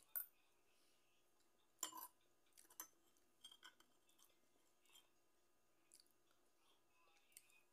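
Near silence broken by faint, scattered chewing and small crunches from someone eating rice with fried dried anchovies by hand, plus a few soft clicks. The loudest crunch comes about two seconds in.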